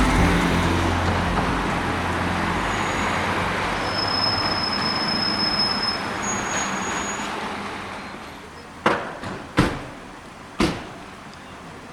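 The tail of background music fading into a steady rushing noise that slowly dies away, then three sharp knocks about a second apart near the end.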